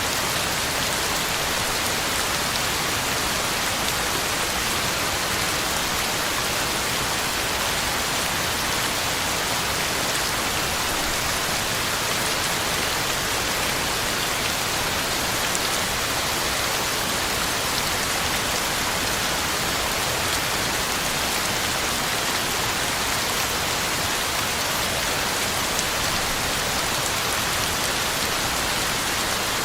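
Heavy rain falling steadily, drops pattering on the ground and leaves in an even, unbroken hiss.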